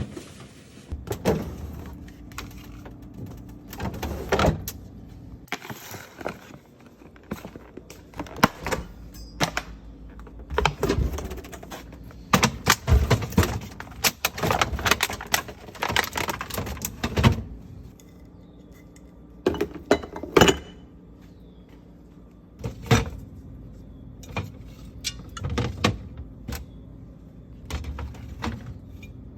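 Food containers and groceries being handled and set down: irregular clinks, taps and knocks coming in clusters, with short pauses between them.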